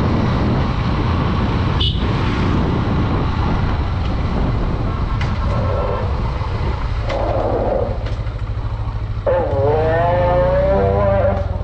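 Honda Dream 110 single-cylinder engine running under way, with wind rush on the helmet-mounted microphone. From about nine seconds in, a long steady horn-like tone joins it and carries on to the end.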